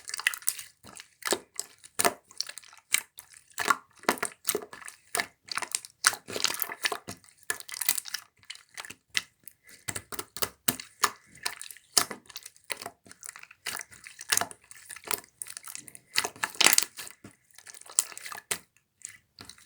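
Clear slime being pressed, poked and stretched by hand, giving an irregular run of pops and crackles, a few each second.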